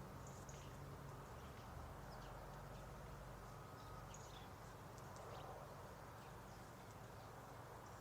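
Faint outdoor ambience: scattered short, high bird chirps over a steady low background rumble.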